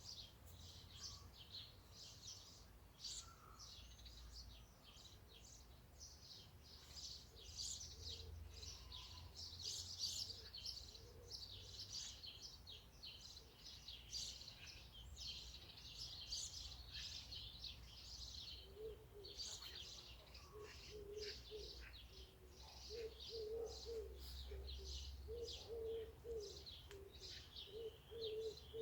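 Many small birds chirping and singing, short rapid high notes overlapping throughout, with lower repeated notes joining in the second half over a faint low rumble.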